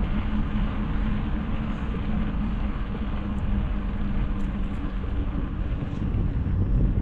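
Steady running noise of a moving vehicle, engine and road noise with a constant low hum.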